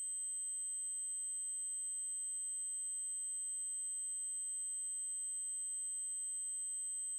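Steady, very high-pitched 8192 Hz triangle-wave tone, electronically generated and unchanging in pitch and level, with a faint click about four seconds in.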